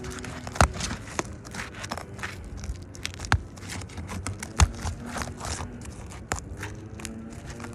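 Roofing shingles being pried apart to break their seal: irregular crackling and scraping, with several louder sharp snaps as the shingle above is separated from the one being removed.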